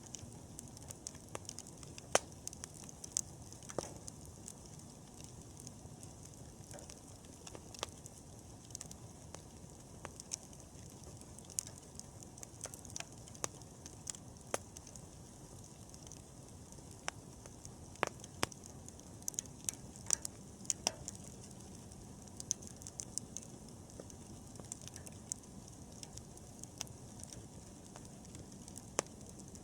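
Wood bonfire crackling: irregular sharp pops and snaps over a low steady rush of the flames, with a busier run of pops about two-thirds of the way through.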